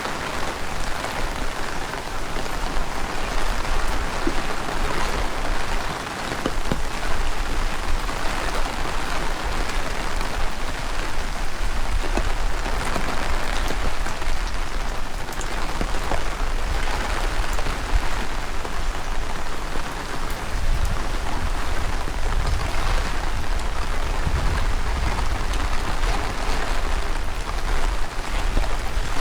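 Heavy rain falling steadily, with strong wind buffeting the microphone as a low rumble that grows stronger in the second half.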